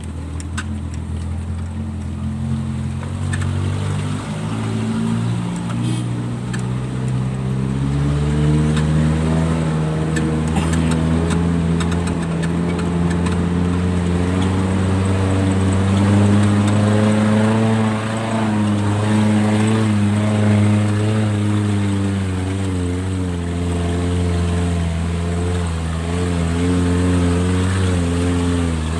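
Vehicle engine running steadily under way. Its pitch climbs about eight seconds in and then holds, dipping slightly a few times. Short knocks and rattles sound in the first few seconds.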